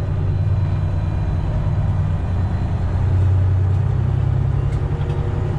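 Semi-truck diesel engine, a Detroit Diesel Series 60, running at low speed and heard from inside the cab as a steady low drone that gets a little louder about three seconds in.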